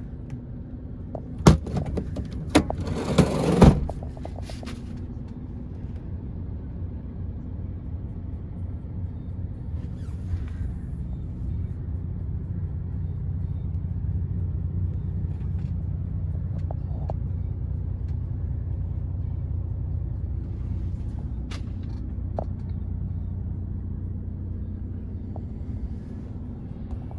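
MAN TGX 26.470 tractor unit's 470 hp straight-six diesel idling steadily. In the first few seconds there are three sharp knocks and a short burst of hiss.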